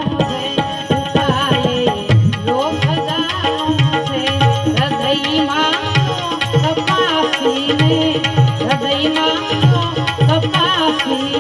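Instrumental interlude of a Gujarati santvani bhajan: a melodic instrument plays a wavering, gliding tune, and tabla strokes join about two seconds in and keep a steady rhythm.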